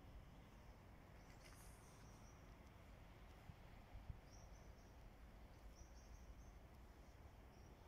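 Near silence: faint outdoor background noise with a small bird's high, faint chirps now and then.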